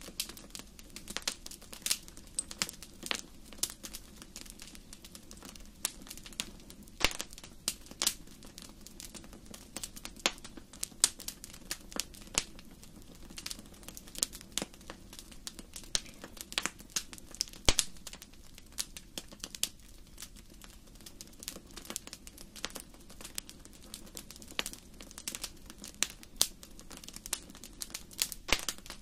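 Wood fire in a fireplace crackling: irregular sharp snaps and pops, several a second and of varying loudness, over a steady low background.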